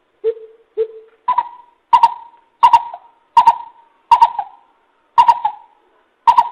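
Coucal (bìm bịp) calling: a series of deep, evenly spaced hoots. Two lower notes come first, then the pitch steps up for seven more, about one every 0.7 seconds, each with a hard, clipped-sounding onset.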